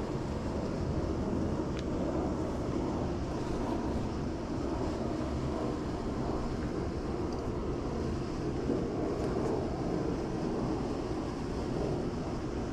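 Swimming pool pump running steadily while the pool is vacuumed: a continuous low rumble with no distinct events.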